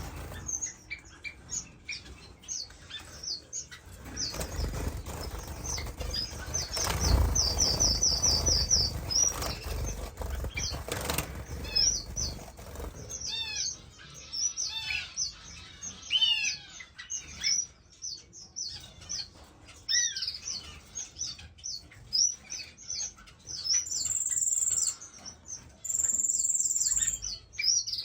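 A room of caged finches chirping busily, many short high calls overlapping, with a quick trill about eight seconds in and wings flapping in the cages. Near the end two steady high whistles, each about a second long, stand out over the chirping.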